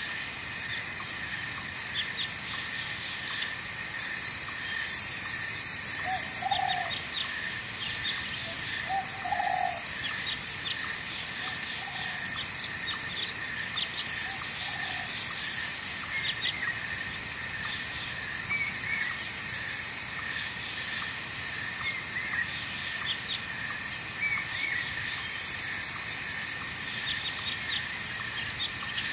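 Night forest ambience: a steady chorus of crickets and other insects, pulsing in high trills. A few short, low calls come between about six and ten seconds in, and small high chirps come later.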